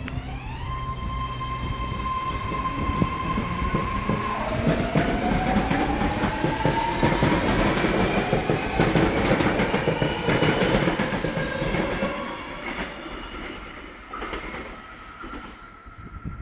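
BART electric train accelerating away from the platform: its propulsion whine rises in pitch, drops back about four seconds in and climbs again, over wheels clattering on the rails. The clatter is loudest in the middle and fades as the train leaves.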